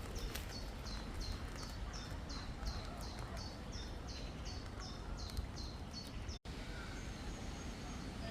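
A small bird repeating a short, high chirp about three times a second, over the steady rush of a stream. The chirping stops about five and a half seconds in, and the sound drops out for an instant a second later.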